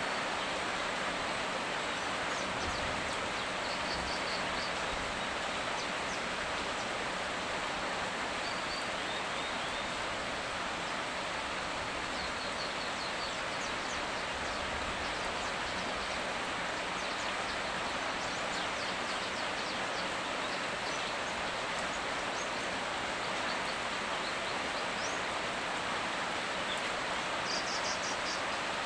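Steady rain falling in an even hiss, with a few faint high chirps over it.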